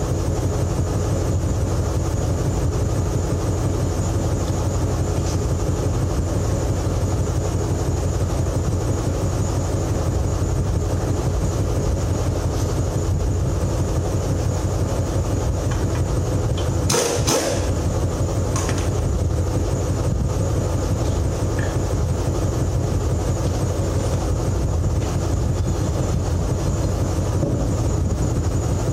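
An engine running steadily, with one brief metallic clank about seventeen seconds in.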